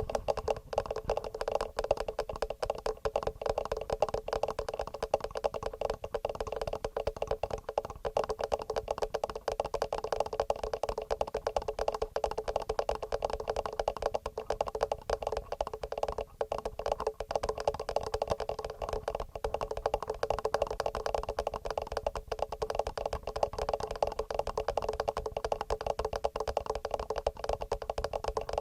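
Fingernails tapping fast and regularly on a TASCAM recorder's microphones: a dense, unbroken stream of small clicks.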